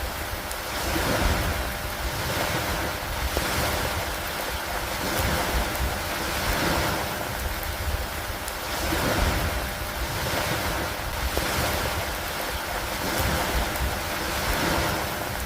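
Steady rain on a wooden dock, a dense hiss that swells and eases every couple of seconds, with a low rumble underneath.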